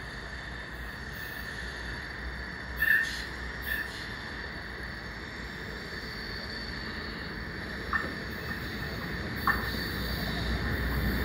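Train approaching on the line, a steady rumble and hiss slowly growing louder, with a faint steady high ring over it. A few short high chirps come about three seconds in, and two sharp clicks near the end.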